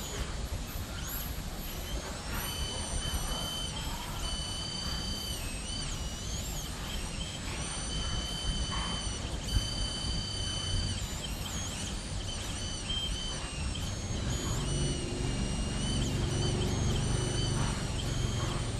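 Mini CNC machine running, its stepper motors whining in several high tones that jump between pitches as the axes change speed, over a low rumble that grows louder about fourteen seconds in.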